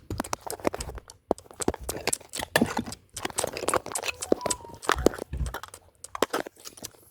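Irregular clicks, taps and light clatter of small plastic toy pieces being handled and set down, with a brief faint tone about four and a half seconds in.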